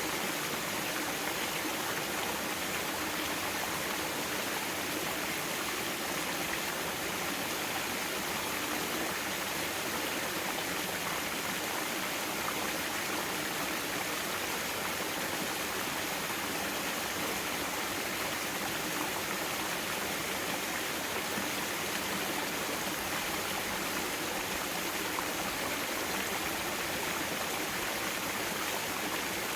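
Mountain stream rushing over rocks, a steady even flow of water.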